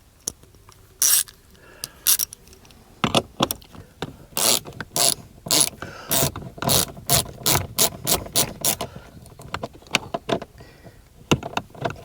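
Hand socket ratchet clicking as a bolt is backed out: a few separate clicks, then from about three seconds in a steady run of clicks that quickens to about four a second and stops near the end.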